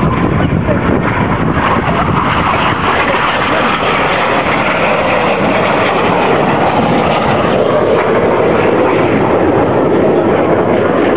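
Jet noise from Red Arrows BAE Hawk T1 trainers, each with a single Rolls-Royce Adour turbofan, flying past in display: a loud, steady rushing that holds through without a break.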